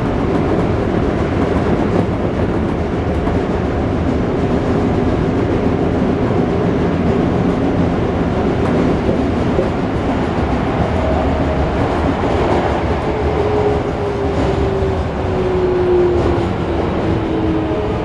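Running noise inside a Toei 5300-series train car: a steady rumble of wheels on rail. From about two-thirds of the way in, the inverter-driven traction motors' tones slide steadily down in pitch as the train slows.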